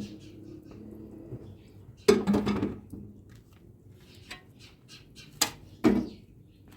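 Cooking pots and utensils knocking and clattering: a loud clatter about two seconds in, then two sharper knocks near the end, each with a short ring.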